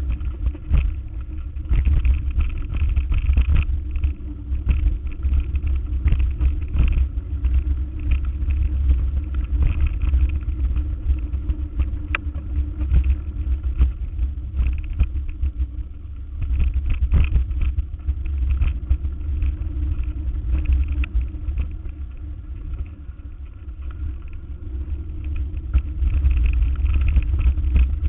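Motor vehicle driving, with a steady low engine rumble and frequent short knocks and rattles. The loudness dips twice, about two-thirds of the way in and again shortly after.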